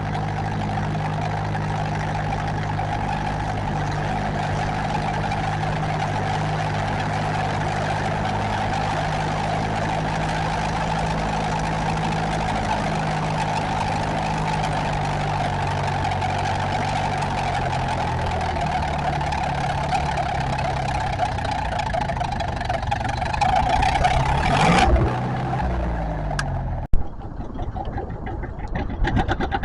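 Tractor engine running hard and steady under load while pulling the sled; its pitch sags slowly over the last several seconds as it lugs down. Near the end the sound cuts off abruptly and a lighter, rattling engine sound follows.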